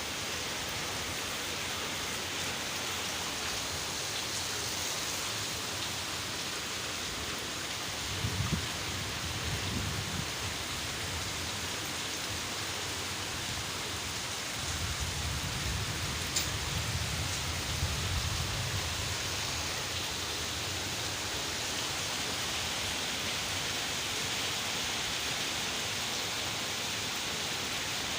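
Steady heavy rain falling as an even hiss. A low rumble comes in twice, briefly about a third of the way in and for several seconds around the middle.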